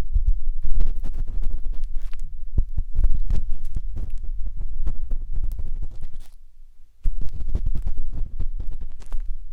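Matchstick scratching and rubbing inside the silicone ear of a 3Dio binaural microphone: a dense run of close, irregular scrapes with low thumps, breaking off for most of a second about two-thirds of the way through, then resuming.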